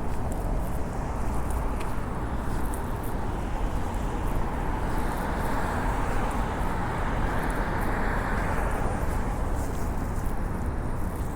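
Steady city traffic noise with a low rumble; the tyre hiss of a passing vehicle swells and fades over the middle seconds.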